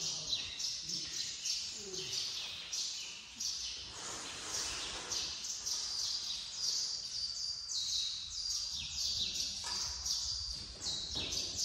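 Small birds chirping busily: a quick, continuous run of short, high chirps, several a second.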